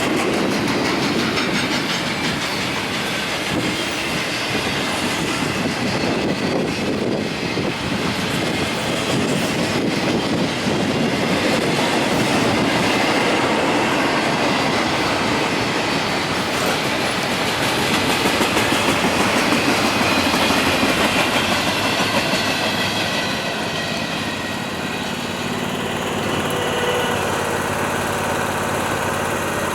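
A train's railroad cars rolling steadily past, wheels clacking over the rail joints.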